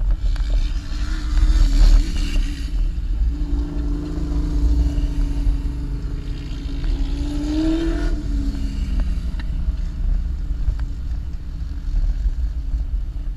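Jeep engine running under load while driving over sand dunes, with a deep rumble underneath; the engine note climbs about eight seconds in, then falls back.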